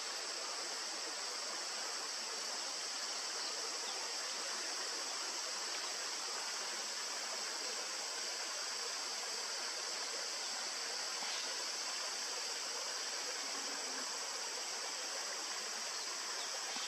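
Steady, unbroken rushing of a stream, with a continuous high hiss above it.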